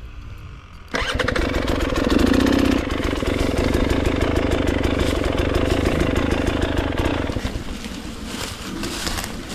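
Dirt bike engine starting suddenly about a second in, revving briefly, then running steadily and easing off near the end.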